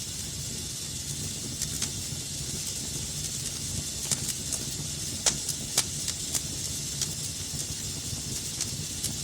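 Wood fire burning in a fireplace: a steady hiss and low rumble of the flames with irregular sharp crackles and pops, a cluster of louder pops about four to six seconds in.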